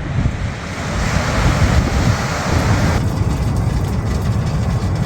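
Wind buffeting the microphone with a heavy low rumble, under a loud rushing wash that stops abruptly about three seconds in.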